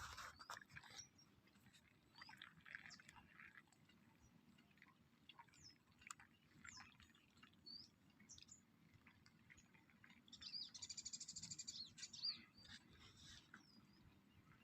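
Faint birdsong: scattered short chirps, with a rapid trill about ten seconds in.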